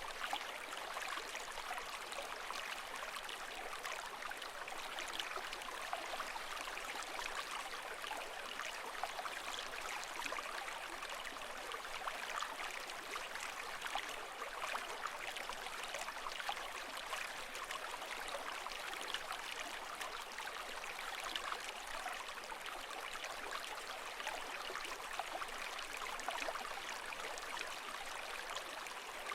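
Steady flowing water, a dense even rush with fine bubbling and trickling detail, holding the same level throughout with no rise and fall of breaking waves.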